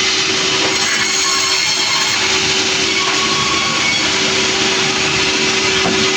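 Sawmill machinery running, a steady loud rushing noise with a constant hum underneath and no let-up.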